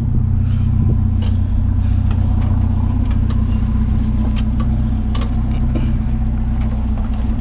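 A vehicle engine idling steadily, a low even hum, with a few faint clicks and knocks over it.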